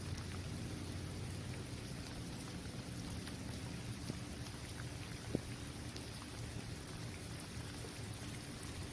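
Steady rain falling on a basketball court: a continuous hiss with scattered drop taps and one sharper tap about five seconds in.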